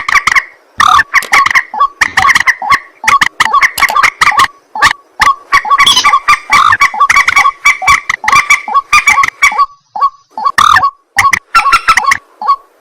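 White-breasted waterhen (ruak-ruak) calling loudly and without let-up: a rapid chain of short, harsh, honking notes, several a second, with a brief break near the end.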